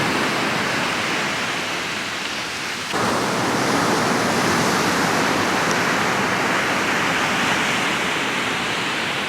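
Ocean surf washing onto the beach: a steady rush of waves, which shifts suddenly about three seconds in to a brighter, louder rush.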